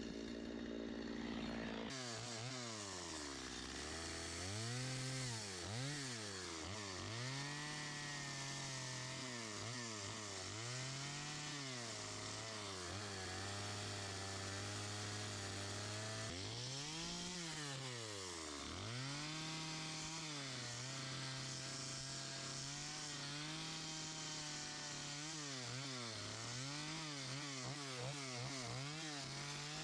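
Two-stroke chainsaw making short carving cuts in wood, its engine revving up and dropping back to idle over and over. It holds a longer steady run at speed near the end.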